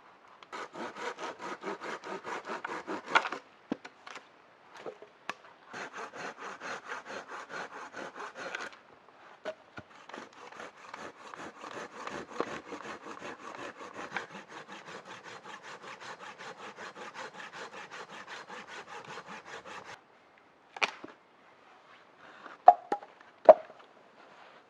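Hand saw cutting through a wooden branch in quick, even strokes, in three bouts with short pauses, the last one the longest. A few sharp knocks follow near the end.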